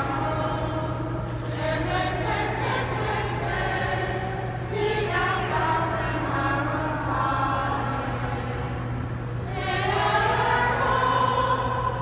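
A mixed choir sings sacred music in sustained phrases, with breaths between phrases about four and a half and nine and a half seconds in. A steady low tone runs underneath.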